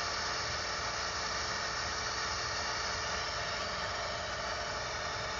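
Steady drone of a light aircraft's piston engine and propeller heard from inside the cabin in cruising flight, an even rushing noise with a constant hum.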